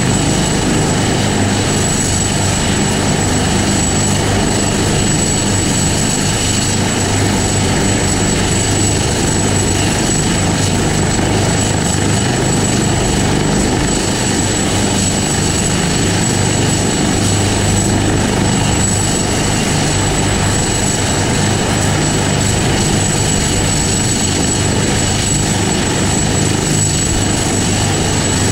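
Helicopter running close by, its turbine whine and rotor noise held steady and loud without a break.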